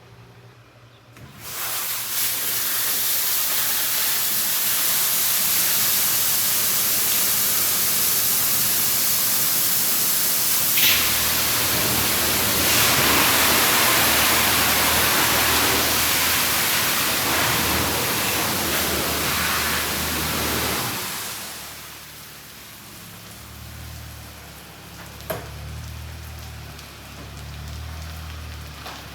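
Water spray from a JNB in-bay automatic car wash hitting the car as a loud, steady hiss. It starts about a second in and runs for some twenty seconds, then drops to a quieter hiss with a low hum underneath and a single click.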